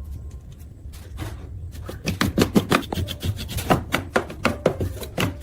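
Irregular run of sharp clicks and knocks, closely spaced from about two seconds in, over a steady low hum: hand tools and parts being handled during work on a washing machine.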